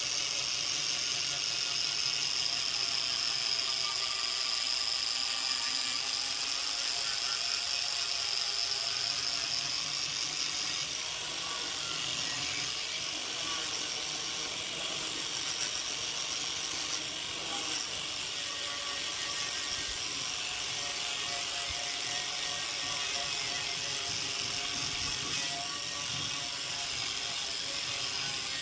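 A machine running steadily, a continuous mechanical whir with a strong high hiss.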